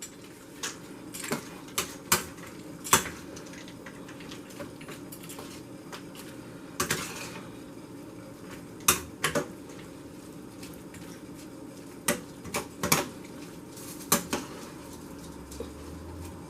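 A utensil stirring a thick mix of cooked ground beef, peas and blueberries in cookware, with irregular clinks and scrapes against the sides, about a dozen sharp knocks spread unevenly through the stirring.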